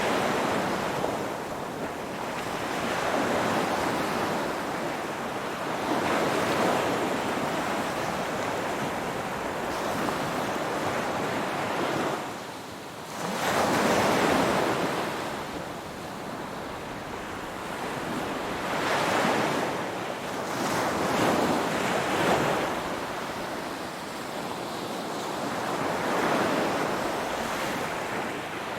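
Ocean waves breaking and washing on the shore, the surf swelling and ebbing every few seconds, with one louder wave about halfway through.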